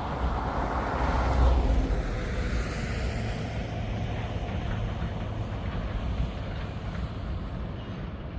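Freight train rolling past: a steady low rumble and hum, with a louder swell of noise about a second in.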